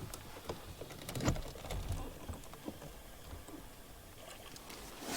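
Scattered light clicks and knocks of small objects being handled, the loudest a little over a second in.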